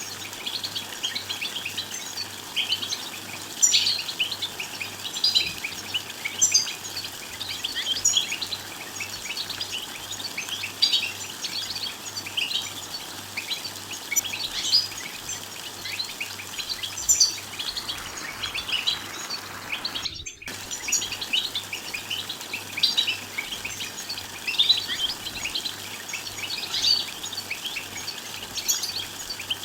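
European goldfinches twittering in chorus: dense, overlapping rapid chirps and trills, broken by a momentary cut in the sound about twenty seconds in.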